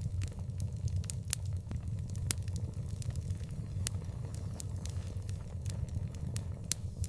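Outdoor wood fire crackling, with irregular sharp pops and snaps over a steady low rumble.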